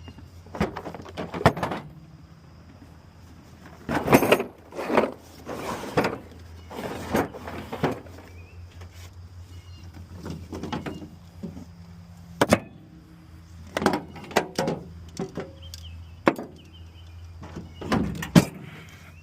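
A string of irregular knocks and clunks, some single and some in quick clusters, over a steady low hum.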